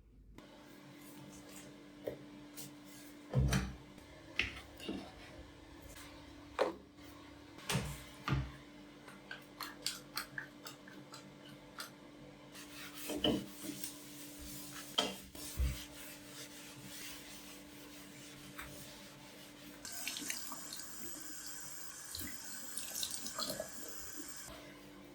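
Washing up at a sink: irregular clinks and knocks of dishes and objects being handled, with a tap running for a few seconds near the end, over a steady low hum.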